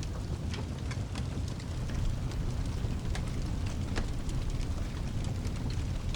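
Layered storm-and-fireplace ambience: steady rain over a continuous deep rumble, with many short sharp crackles scattered at irregular times, as of a wood fire.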